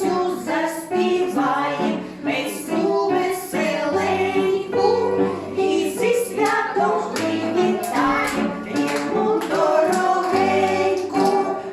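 A group of young children singing a song together, a woman's voice singing along, over instrumental accompaniment.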